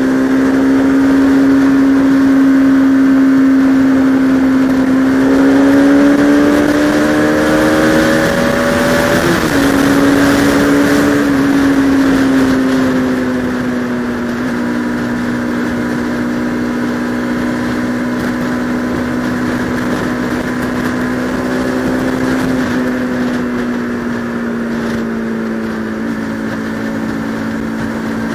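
Bajaj Pulsar RS200 motorcycle's single-cylinder engine running under way. Its pitch climbs for a few seconds, breaks briefly about nine seconds in as a gear is shifted, then eases down and holds a steady cruise.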